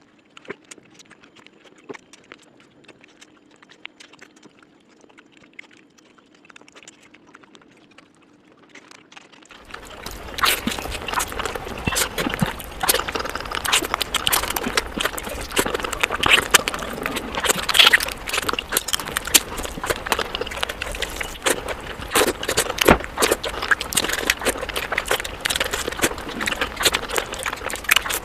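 Close-miked eating sounds: faint chewing and mouth clicks at first, then from about ten seconds in loud, dense, wet chewing and crunching of curry, rice and raw vegetables.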